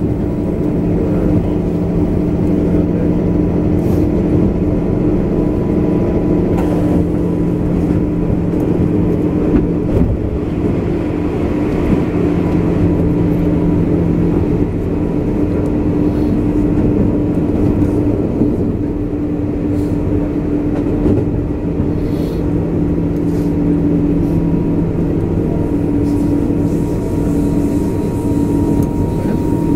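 JR 201 series electric train heard from inside the car while running: a steady low rumble of wheels on rail with a constant hum on top, and a few sharp clicks from the track.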